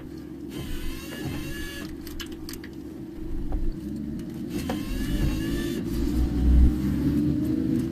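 Car driving, heard from inside the cabin: a steady low road and engine rumble that swells louder about six seconds in.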